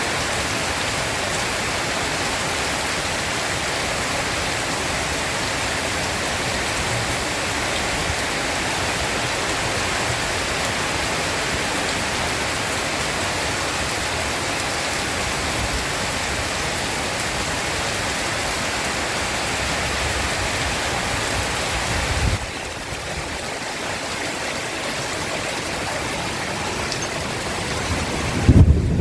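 Heavy rain pouring steadily, falling abruptly to a slightly softer downpour about 22 seconds in. Near the end a loud, low rumble of thunder begins.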